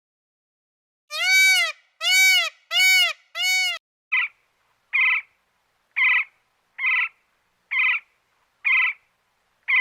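Animal calls: after a second of silence, four loud drawn-out calls that rise and fall in pitch, then from about four seconds in a run of short, sharper calls about once a second.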